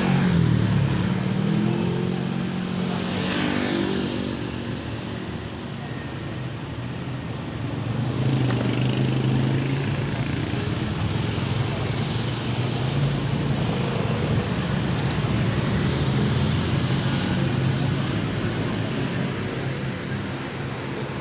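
Motor vehicle engine running, its pitch rising and falling, with a brief upward glide near the start and again about three to four seconds in.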